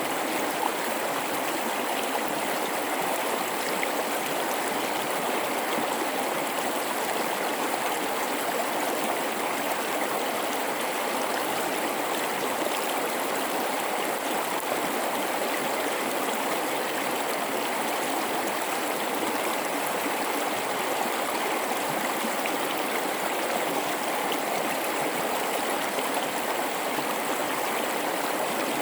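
Mountain river flowing through a rocky gorge: a steady rush and babble of water over rocks.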